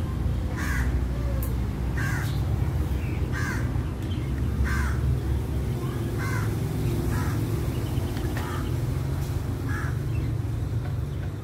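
A bird calling repeatedly, about eight short calls spaced a second or so apart, over a steady low rumble.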